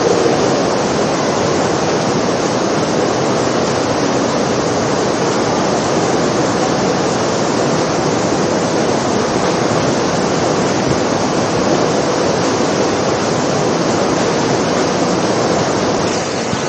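Heavy artificial indoor rain pouring down in a steady, even downpour onto the floor.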